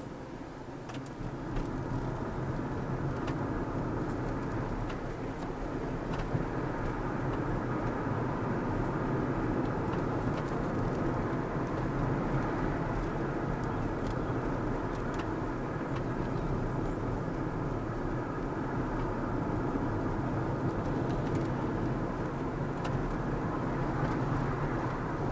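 A car driving on the road: steady tyre and engine noise, growing louder about a second and a half in as the car picks up speed, then holding even.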